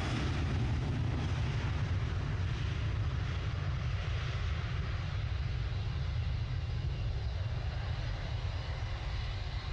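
Airliner engines rumbling deep and steady, with a higher hiss on top that slowly fades away.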